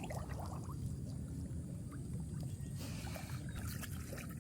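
Water splashing and dripping as a fishing net is handled and hauled in, with a brief louder splash about three seconds in, over a steady low rumble.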